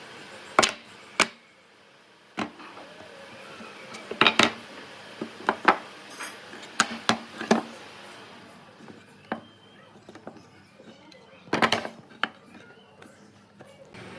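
Irregular knocks and clatter of wooden pieces and tools being handled and set down, a dozen or so sharp taps and thumps with pauses between, the loudest cluster about four seconds in and another near the end.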